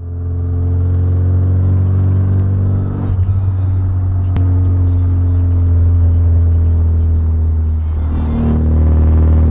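Steady low drone of a car's engine and road noise, a vehicle under way, with a single sharp click about four and a half seconds in.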